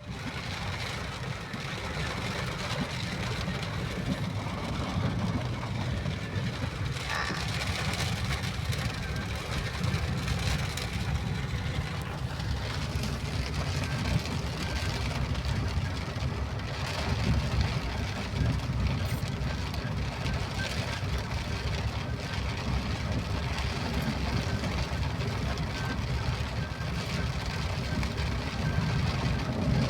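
A vehicle driving in the rain: steady engine and road noise, with rain hissing over it.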